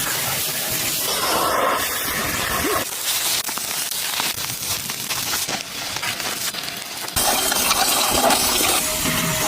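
Car-wash spray hissing steadily against a car, in clips that change abruptly about three and seven seconds in.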